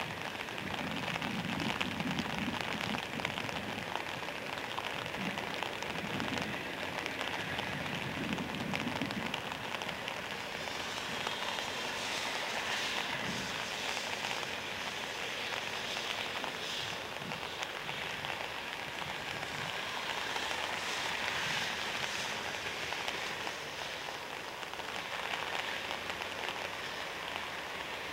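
A steady hiss with a faint, uneven low rumble from an approaching diesel train, heard mostly in the first ten seconds.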